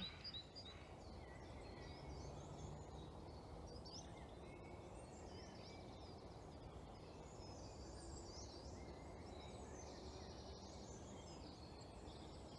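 Quiet woodland ambience: a steady low background hum with scattered faint, distant bird calls and chirps.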